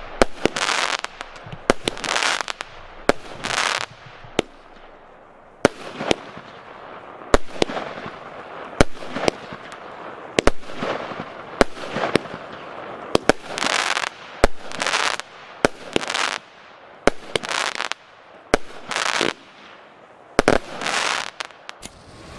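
25-shot, 20 mm consumer fireworks battery (cake) firing in sequence: a sharp report about once a second, most followed by a short noisy burst as the shot breaks overhead.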